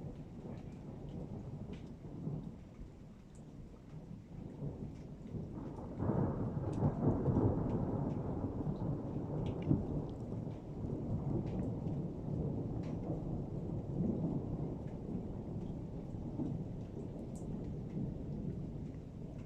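Rolling thunder over steady rain, with raindrops ticking close by. About six seconds in a loud rumble starts suddenly and rolls on, slowly fading.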